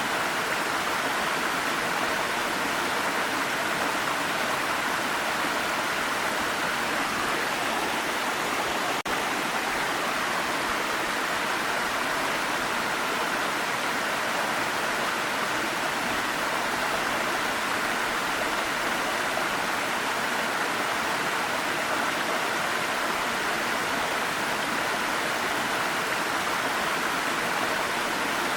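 Waterfall: a steady, even rush of falling water, with a momentary drop in level about nine seconds in.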